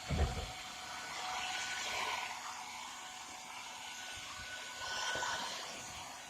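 Hair dryer blowing steadily on a motorcycle headlamp, heating it to soften the sealant so the lens can be prised off; its rush swells twice, about two and five seconds in. A short low thump at the very start.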